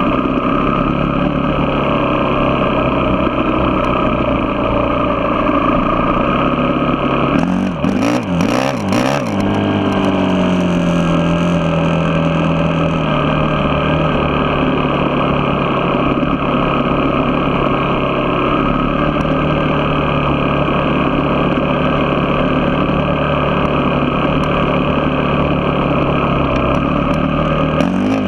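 A motor vehicle's engine running steadily while driving. About 8 seconds in, the engine note wavers briefly, then settles into a tone that slowly falls in pitch.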